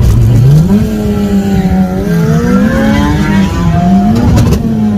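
Mitsubishi Lancer's turbocharged 4G15 MIVEC 1.5-litre four-cylinder accelerating hard: the revs climb steeply at the start, stay high with two brief dips, then fall away near the end. A brief rattle sounds a little past four seconds in.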